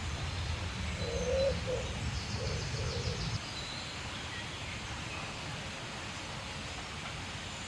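Wild bird calls: a short series of four or five low notes from about one to three seconds in, with fainter high chirps behind, over a steady outdoor background.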